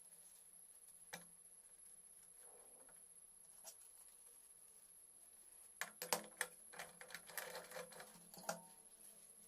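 Faint clicks and light knocks of hand tools and small metal parts being handled: a single click about a second in, then a burst of irregular clicks and knocks over a couple of seconds near the end.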